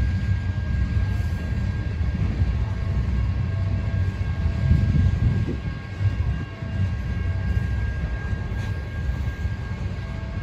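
Train rolling past with a steady low rumble.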